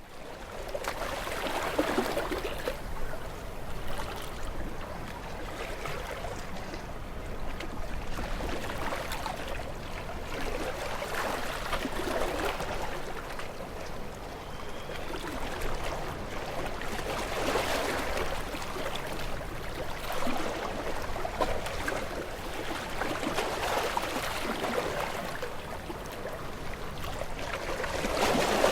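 Sea waves washing in, a steady rushing wash that swells every few seconds as each wave comes in.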